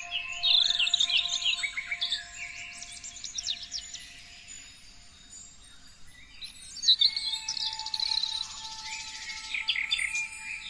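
Several songbirds chirping and trilling in quick rising and falling whistles. A busy burst of song comes in the first two seconds and another from about seven seconds in, with a thinner stretch between.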